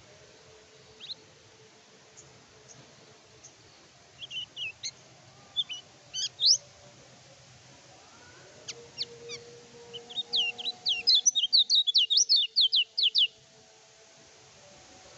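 Kecial kuning (lemon-bellied white-eye) singing: scattered sharp, high chirps, then a fast run of loud chirps that ends about two seconds before the end.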